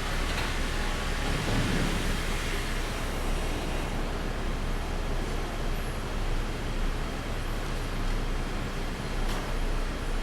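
Sawmill machinery running at a steady level, a constant noisy din over a low hum, with a brief low rumble about a second and a half in.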